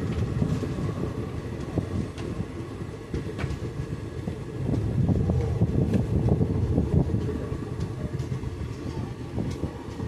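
Express train running on the line: a steady low rumble of wheels on rails, with scattered clicks as the wheels pass over rail joints.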